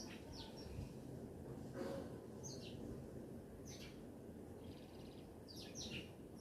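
Small birds chirping: short, high, quickly falling chirps, several spread out over a few seconds, over a steady low outdoor background noise, with a brief louder rush about two seconds in.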